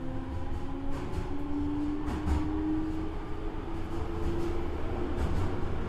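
Toei Asakusa Line 5300 series subway train's traction motors whining, the pitch rising steadily as the train gathers speed, over a low wheel-on-rail rumble with a few faint clicks.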